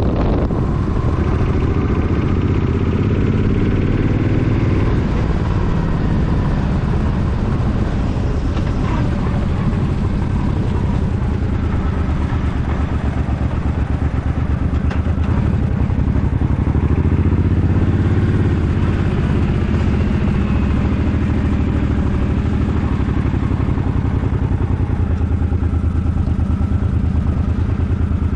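Suzuki Boulevard M50's 805 cc V-twin engine running while riding. Its pitch rises and falls back twice, a few seconds in and again past the halfway point.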